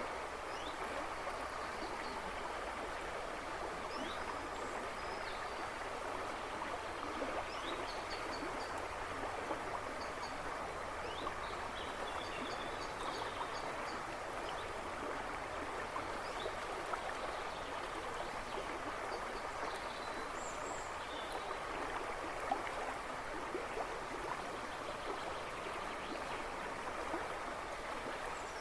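A river rushing and babbling steadily over stones, with small birds chirping faintly and intermittently in the woods.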